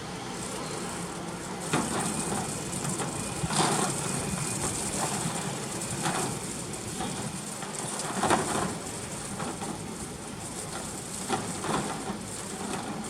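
Strong typhoon wind blowing steadily, swelling in gusts every few seconds.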